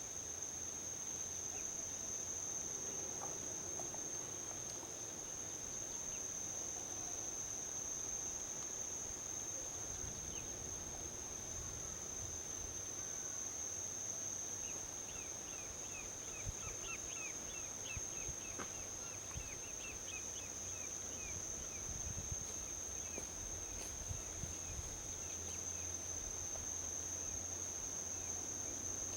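Steady high-pitched chorus of crickets or similar insects, over a low, continuous rumble of distant highway traffic. A run of quick high chirps comes in about halfway through.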